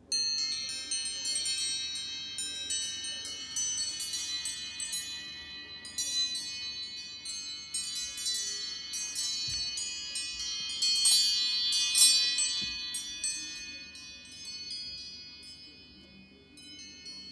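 iPhone iOS 7 ringtone: a chiming melody of many high, bell-like notes struck in quick succession that ring on, building to its loudest after about eleven seconds and then fading away.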